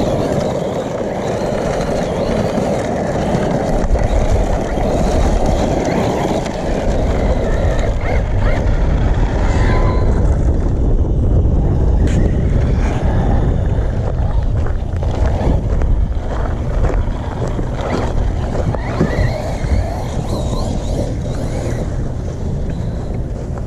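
Losi Baja Rey 1/10-scale brushless RC desert truck being driven: a steady low rumble throughout, with a few brief rising whines from the motor about ten and twenty seconds in.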